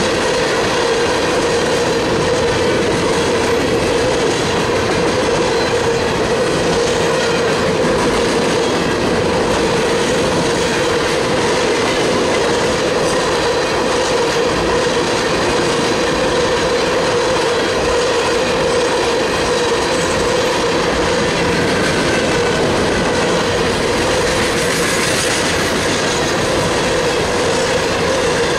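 Freight train cars rolling steadily past at close range: a continuous rumble of wheels on rail with a steady tone running through it.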